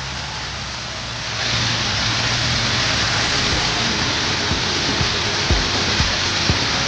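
Heavy rain falling, a steady hiss that grows louder about a second and a half in, with a low hum underneath and a few short low thuds in the second half.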